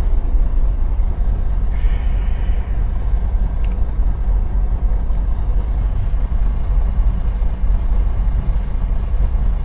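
Semi truck's diesel engine idling, a steady low rumble heard from inside the cab, with a faint short air hiss about two seconds in.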